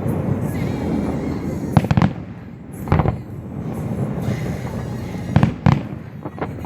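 Aerial fireworks bursting: continuous crackling with several sharp bangs, two close together about two seconds in, another at three seconds, and a pair near the end.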